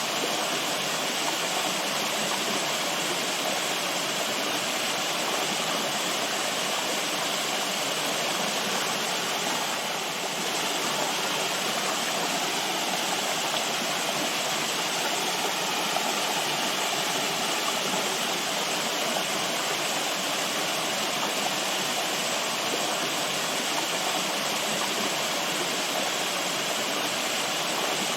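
Running water, a steady rushing flow like a stream or small waterfall, even and unbroken.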